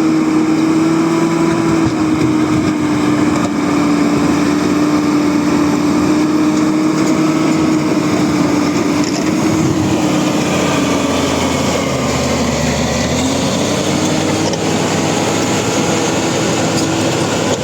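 Bulldozer's diesel engine running steadily under work. Its note sags slightly about twelve seconds in, then picks back up.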